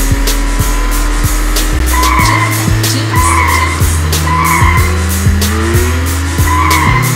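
Action music track with a deep bass line and a steady beat, under car sound effects: an engine sound whose pitch drifts, and tyre squeals that come four times from about two seconds in, each about half a second long.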